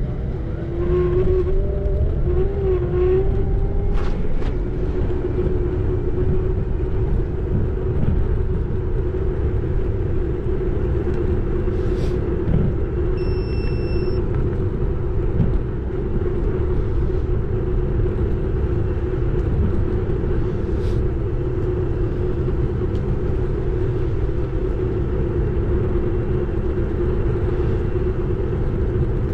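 Xiaomi Electric Scooter 4 Pro under way: its electric hub motor whines at a steady pitch that wavers in the first few seconds, over a steady low rumble of wind and road noise.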